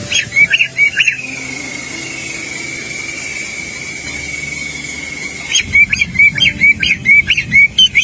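A songbird singing loud, short, swooping whistled notes: one quick burst, then after a pause a rapid run of about four notes a second. A thin, steady high tone holds between the bursts.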